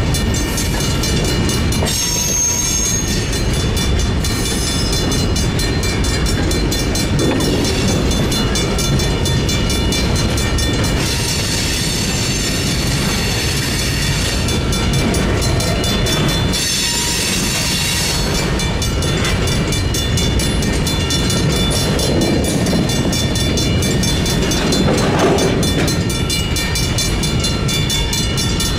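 Freight train rolling through a railroad crossing on a switching move: a loud, steady rumble of wheels on the rails, with two stretches of high hiss, about eleven and seventeen seconds in.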